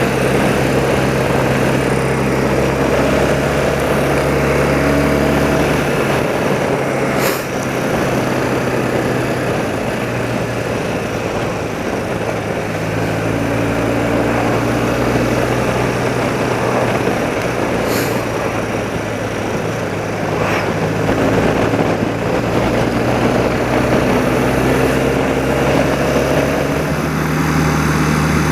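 Engine of a 30-year-old BMW motorcycle running steadily while riding, with wind and road noise. The engine note shifts a couple of times, and there are three brief sharp clicks.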